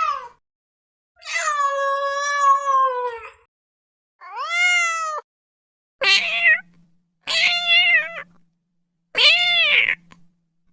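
Domestic cat meowing over and over: about five separate meows with short gaps between them, the second about two seconds long. Each one arches up and falls off in pitch.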